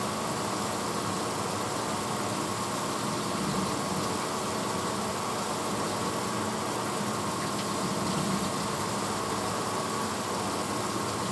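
1986 Hotpoint Potwasher dishwasher running mid-cycle: a steady motor hum under an even rushing noise, with no change in level.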